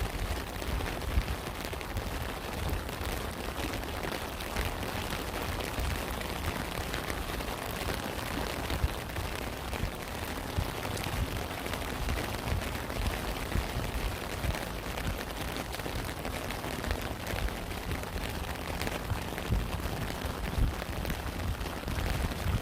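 Steady rain falling, a continuous hiss of many small drop hits, over a deep low rumble.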